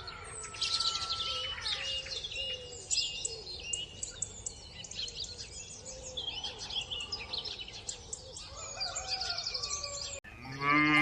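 Birdsong: many small birds chirping and trilling together. Near the end a louder, lower animal call with a wavering pitch breaks in.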